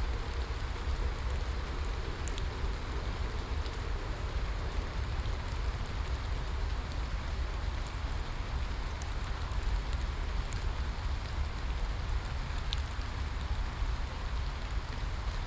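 Steady rain falling, with a low rumble underneath and scattered faint drop ticks.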